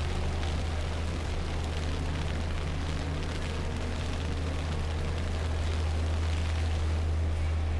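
Steady low rumble with an even hiss over it: outdoor city street noise in a snowstorm, with faint traffic hum.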